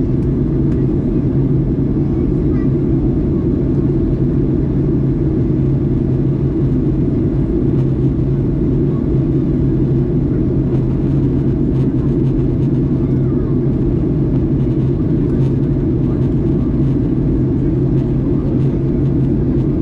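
Boeing 737 MAX 8 cabin noise in flight: a steady low drone of the CFM LEAP-1B engines and airflow over the fuselage, with an even hum under it.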